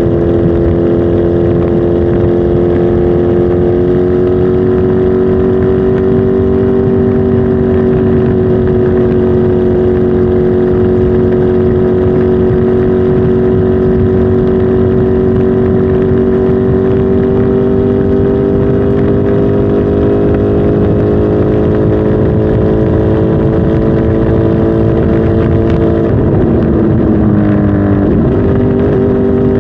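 Kawasaki Z H2 SE motorcycle's supercharged inline-four engine running at steady revs, its pitch creeping up slightly at first, then dropping about two seconds before the end and settling lower.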